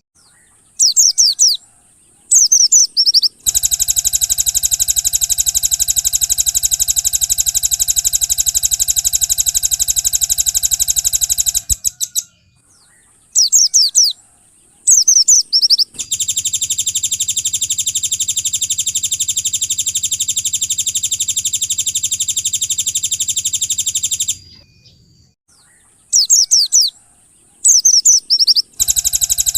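Looped recording of white-eye (pleci) song. Two short, very high chirp phrases that fall quickly in pitch are followed by a long, fast, high trill of about eight seconds. The sequence repeats with brief silent gaps between the parts.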